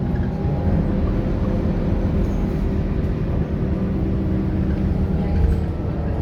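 Scania K230UB bus's 9-litre five-cylinder diesel engine running steadily, a continuous low drone that holds one pitch.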